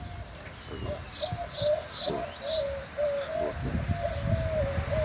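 A bird cooing in a run of low, short notes, with four quick high chirps from a second bird between one and two and a half seconds in.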